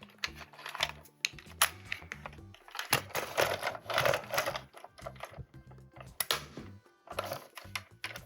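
Plastic toy parts and packaging being handled: a string of sharp clicks and taps, with a louder crinkling rustle about three seconds in, over soft background music.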